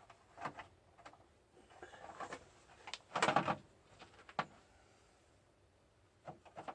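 Handling sounds of work on a mini moto: scattered light knocks and clicks, with a brief rustling scrape about three seconds in.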